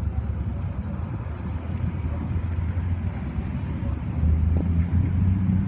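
Low rumble of a vehicle engine running, getting louder and steadier about four seconds in.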